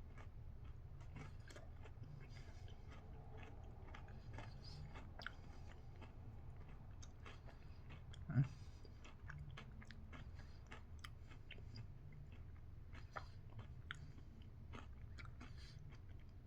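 Faint chewing of a milk chocolate bar with crunchy waffle cone pieces: a steady run of small crunching clicks. There is one louder thump about halfway through.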